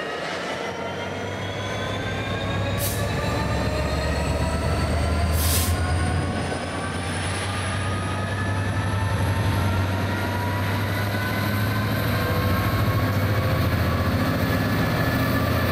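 A train picking up speed at a station: a whine that climbs steadily in pitch over a low rumble. Two short sharp knocks come about three and five and a half seconds in.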